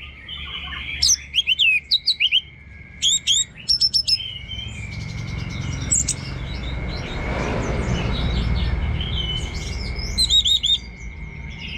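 Orange-headed thrush singing its 'teler' song: quick bursts of rapid, varied, sweeping high notes, with softer chatter between the bursts. A steady high tone runs underneath, and a low rumble swells in the middle.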